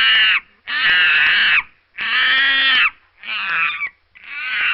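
An animal calling five times in a row, each call lasting about a second and separated by short pauses.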